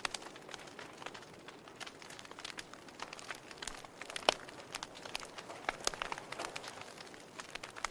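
Wood fire crackling in a fireplace: irregular sharp pops and snaps over a soft hiss, with one louder pop a little past the middle.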